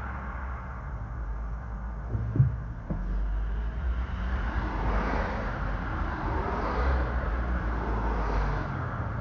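Road traffic rumble from cars on a city street, with a short thump about two and a half seconds in.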